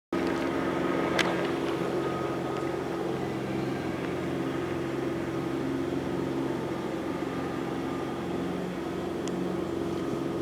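Steady hum of a motor running at an even, unchanging pitch.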